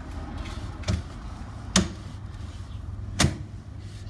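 Three sharp knocks, about a second in, near the middle and about three seconds in, over a steady low hum.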